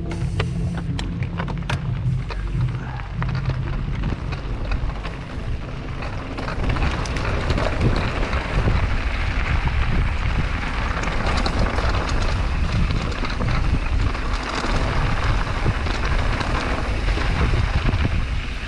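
Mountain bike riding a trail at speed: wind buffeting the camera microphone over the rumble of tyres on dirt, with a few sharp clicks in the first couple of seconds. The rushing noise grows louder about six seconds in as the bike picks up speed.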